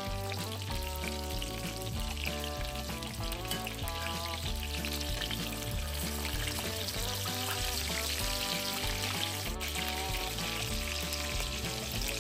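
Food sizzling in a frying pan, with background music playing over it.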